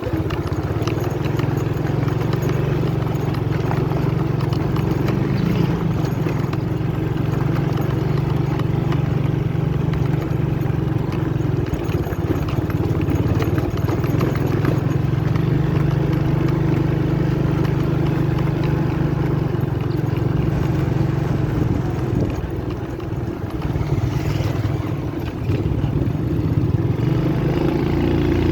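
Motorcycle engine running steadily under load on a rough dirt track. The sound eases off briefly a little past the middle, then picks up again.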